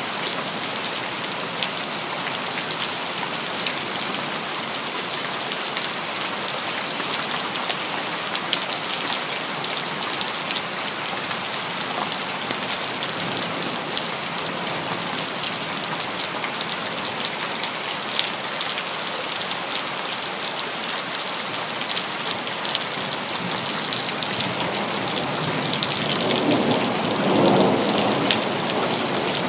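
Steady heavy rain, with drops ticking on hard surfaces throughout. Near the end, a brief low rumble of thunder swells up and fades.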